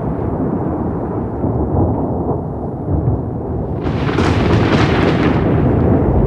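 Thunder rumbling low and continuously, with a sharper crackling peal breaking in about two-thirds of the way through.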